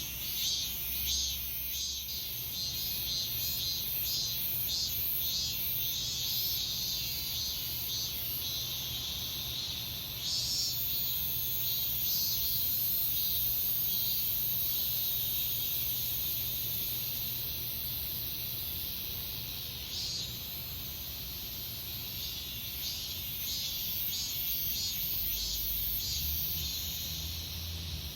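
Cicadas singing in late summer: a high, pulsing buzz that settles into one steady drone from about ten to twenty seconds in, then pulses again.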